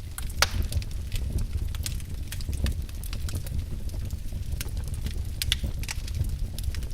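Wood logs burning in a fireplace, crackling with irregular sharp pops over a low rumble of flame. One louder pop comes about half a second in.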